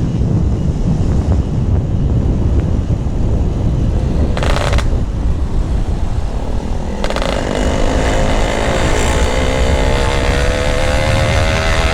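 Two-stroke Yamaha RX-King engine running through a GRT18 aftermarket exhaust, with a heavy low rumble. About seven seconds in its pitch climbs steadily as it revs up.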